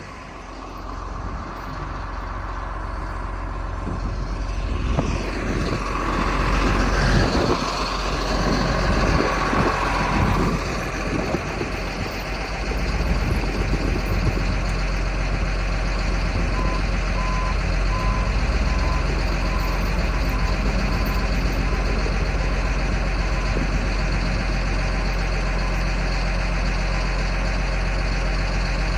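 Caterpillar 914 compact wheel loader's diesel engine running as the machine is driven back and forth to seat newly fitted tire chains, building up and busier over the first ten seconds or so, then settling into a steady run. A backup alarm beeps a few times about 17 seconds in.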